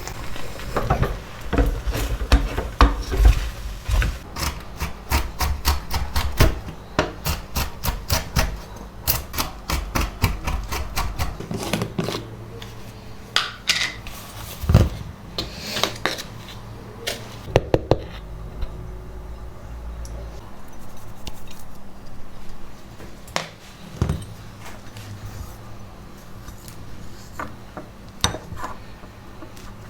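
A run of quick, irregular clicks and knocks from hard objects being handled, typical of kitchen work. They come thick and fast for the first half, then thin out to scattered knocks.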